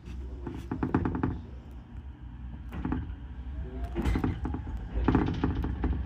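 Ichibata Electric Railway 7000-series railcar running, with a steady low rumble and several clusters of short sharp knocks from its wheels passing over rail joints.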